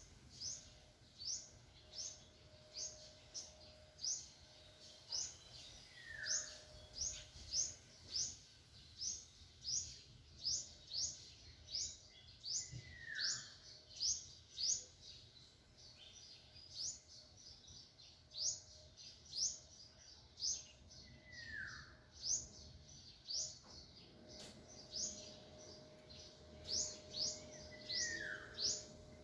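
Birds chirping: a steady run of short, high, upward-sweeping chirps about one or two a second, with a lower down-slurred whistle every several seconds.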